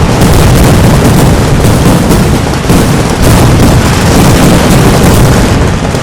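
Kerala temple-festival fireworks (vedikettu) going off in a dense, continuous barrage. The bangs follow each other so fast that they merge into one very loud, unbroken rumble of blasts.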